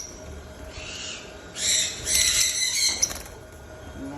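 Lovebirds giving shrill, harsh chattering calls: a short burst about a second in, then a longer, louder one.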